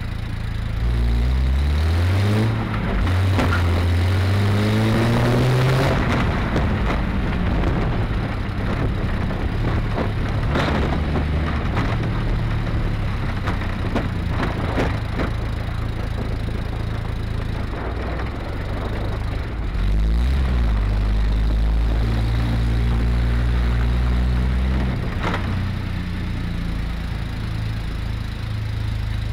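Triumph TR6's straight-six engine pulling under way: revs climb, drop briefly at a gear change and climb again, then it runs steadily. About twenty seconds in there is another pull, which eases off near the end. The owner notes a small exhaust leak on the car.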